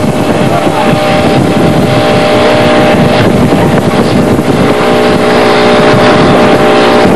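A small boat's motor running steadily at cruising speed, with wind buffeting the microphone.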